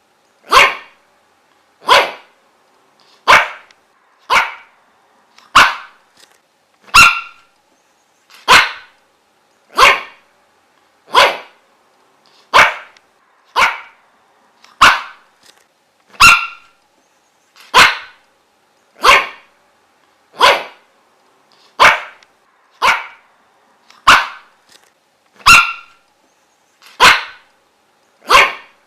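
A dog barking single, sharp barks at an even pace of about one every second and a half, over and over.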